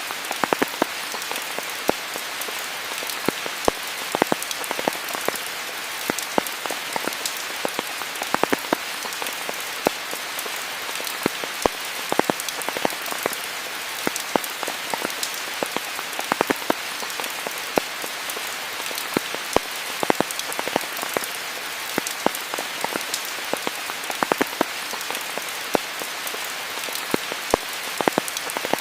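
Steady rain falling, with a continuous hiss and many separate drops striking close by at irregular moments.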